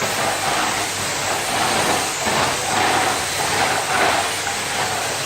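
Vacuum cleaner running: a steady motor hum under a loud suction hiss, swelling a little as it moves.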